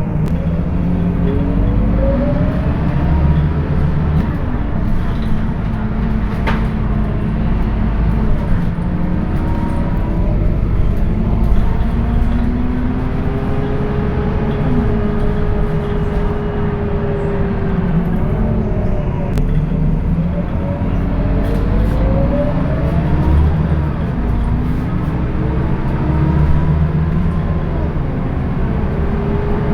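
Scania K230UB city bus engine and ZF automatic gearbox under way, the drivetrain whine rising as the bus pulls away and dropping back at each gear change, several times over, with a steady held tone while cruising in the middle.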